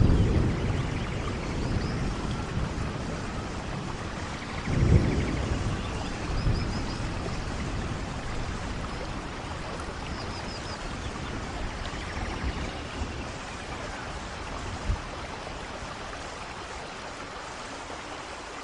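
Steady rainfall during a thunderstorm, with low thunder rumbling at the start and again about five seconds in, then fading.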